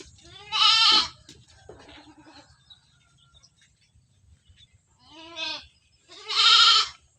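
Goats bleating in a pen: four separate wavering bleats, the loudest about half a second in and near the end, two softer ones between them.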